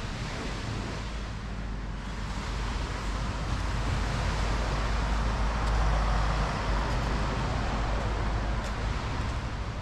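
Wind rumbling on the microphone over a steady rushing noise that swells about halfway through.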